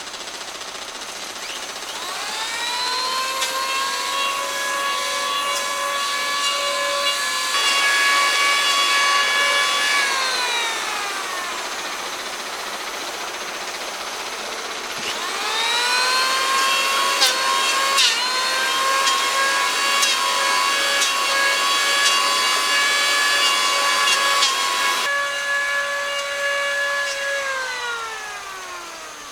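Handheld electric power tool working wood, run twice. Its motor whines up to speed about two seconds in, runs with a rougher cutting noise, and winds down around ten seconds in. It starts again about fifteen seconds in, runs longer, and winds down falling in pitch near the end.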